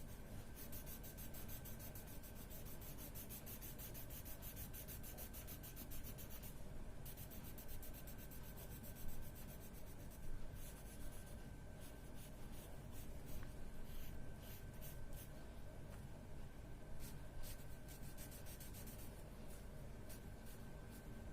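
Colouring in on paper with a blue colour: fast, even back-and-forth scratching strokes, shading a drawing, with a few brief pauses.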